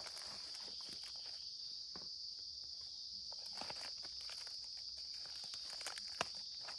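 Steady high-pitched insect chorus of crickets or cicadas, with scattered light clicks and crackles over it and one sharper click near the end.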